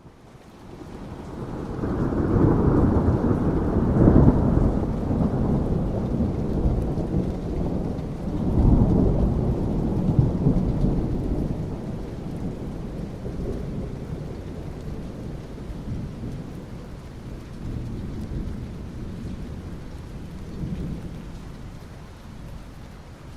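Thunder rumbling with steady rain. The rumble swells in, peaks twice in the first ten seconds or so, then slowly dies away under the continuing rain hiss.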